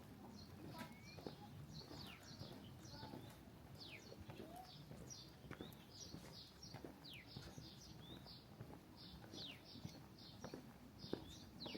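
Small birds chirping: a busy run of short high notes and quick downward-slurred calls, over a faint steady background hiss.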